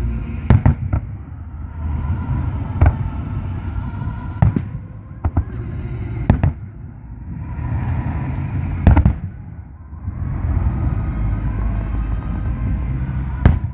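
Aerial firework shells bursting: a string of sharp bangs one to four seconds apart, a few in quick pairs, the loudest about nine seconds in, over a continuous low rumble.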